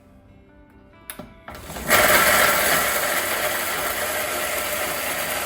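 A click, then an Atomberg mixer grinder starts up about a second and a half in and runs steadily, grinding coconut chammanthi ingredients with its jar set to coarse mode.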